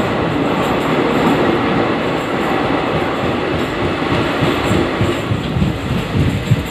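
Express train's coaches running at speed through a rail tunnel, heard from aboard at an open door: a loud, steady rumble of wheels on rails echoing off the tunnel walls, with low thumps in the last couple of seconds.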